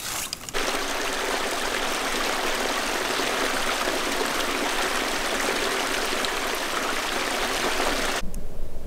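Running water in a small stream, a steady even rush that cuts off abruptly about eight seconds in.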